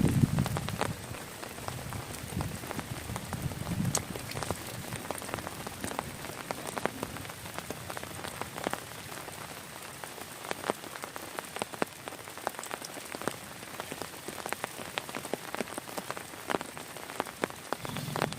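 Heavy rain falling, with many separate drops ticking sharply on a nearby surface. A low rumble is loudest in the first second and comes back faintly about four seconds in.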